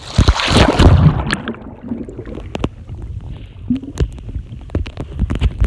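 Sea water splashing and sloshing close to the microphone, with a loud rush in the first second or so followed by scattered sharp clicks and knocks.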